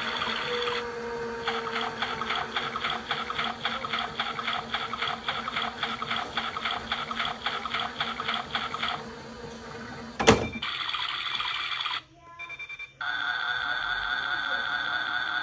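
Washing machine running, with a rapid regular pulsing for several seconds, then a single sharp click about ten seconds in. After a brief drop near the end, a steadier hum with a slight wobble.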